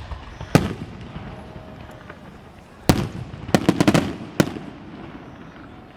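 Fireworks bursting overhead. One bang comes about half a second in and another near three seconds, followed at once by a quick string of crackling pops and a final bang at about four and a half seconds.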